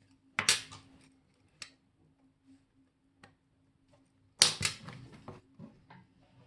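Small metal tools and watch parts clicking and clattering on a watchmaker's bench: a short clatter about half a second in, a few single ticks, then a louder burst of clatter about four and a half seconds in. A faint steady hum runs underneath.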